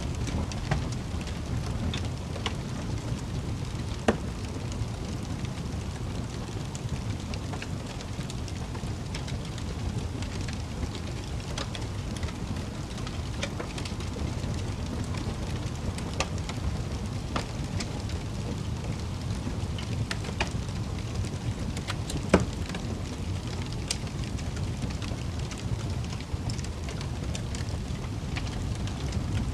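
Wood fire burning in a fireplace: a steady low rumble of flames with scattered crackles and pops, two louder pops about four seconds in and a little past the middle.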